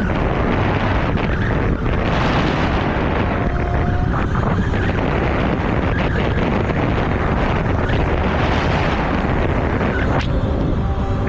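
Loud, steady wind rush buffeting the microphone while riding an e-bike, with a low rumble underneath.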